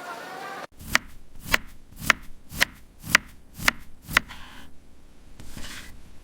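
Knife chopping on a cutting board: seven sharp, even strokes at about two a second, then it stops.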